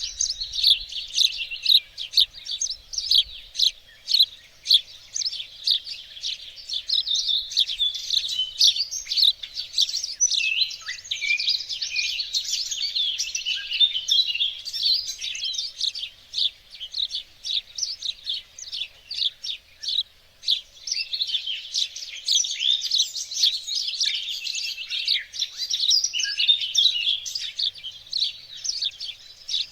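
Songbirds in a garden chirping and singing without a break: a dense chorus of short, high, rapid chirps and trills from several birds at once.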